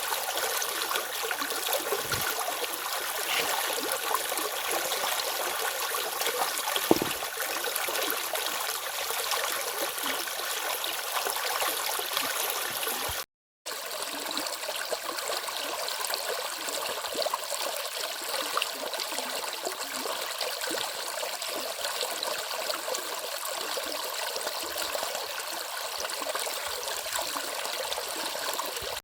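Stream water running steadily over its bed, an even rushing with small splashes and gurgles. The sound drops out completely for a split second about halfway through.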